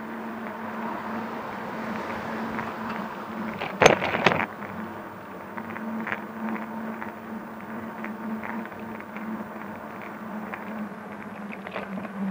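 Street and traffic noise on a moving electric bike, heard from its handlebar camera, with a steady low hum throughout and light ticks. A loud, short clatter comes about four seconds in.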